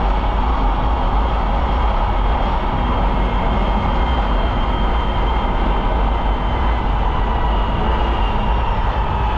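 Polaris Indy snowmobile running at a steady pace along a trail, a constant engine and track drone with a heavy low rumble underneath and a faint high whine.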